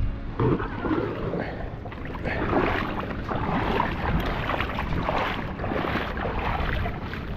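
Paddle strokes splashing and water sloshing around an Itiwit 100 inflatable kayak as it is paddled in, with wind on the microphone.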